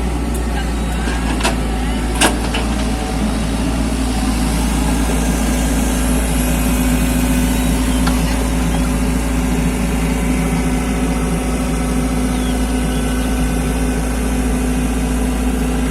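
Mini excavator engine running steadily, with two sharp clicks about two seconds in.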